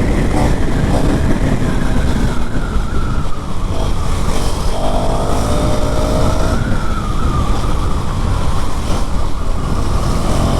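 KTM Duke 390 single-cylinder engine running as the bike rides at speed, its pitch rising and falling with the throttle, under heavy wind rumble.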